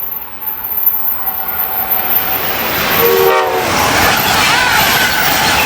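Amtrak passenger train, a cab car leading and an AEM7 electric locomotive at the rear, passing at speed: a loud, building rush of wheels on rail and air. A brief horn blast about three seconds in drops in pitch as the train goes by.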